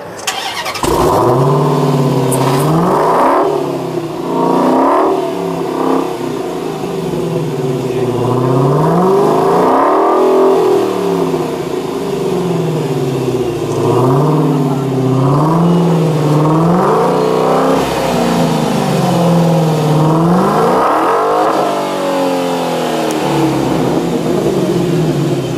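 Supercharged 6.2-litre Hemi V8 of a 2015 Dodge Challenger SRT Hellcat starting up about a second in, then revved again and again, its pitch climbing and falling with each blip.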